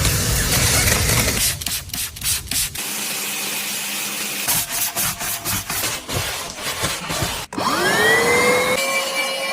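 Rubbing and hissing noise broken by several abrupt cuts, then near the end a power tool's electric motor spins up with a rising whine and holds a steady pitch.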